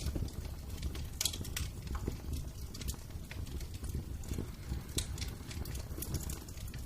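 Wood fire crackling in a fireplace, with irregular sharp pops over a low steady rumble of burning.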